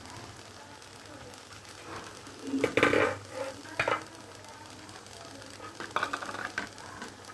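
Grated carrots hissing and bubbling in a wok, still wet with their own water, with lumps of desi ghee just added. A few louder knocks and clatters come about three seconds in and again near six seconds.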